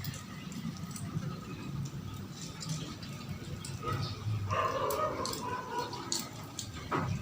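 A dog vocalizing, with pitched cries from about four to six seconds in, over a low steady hum.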